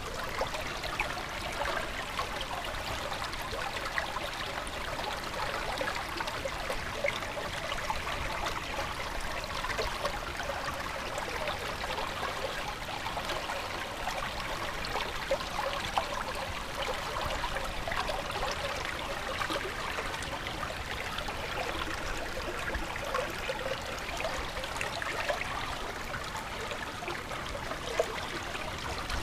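Stream water running and trickling steadily, with many small splashing ticks.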